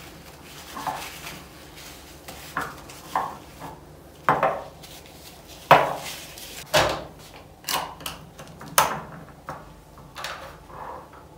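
Kitchen jars, lids and utensils being handled and set down: a series of irregular clinks and knocks, the sharpest about halfway through.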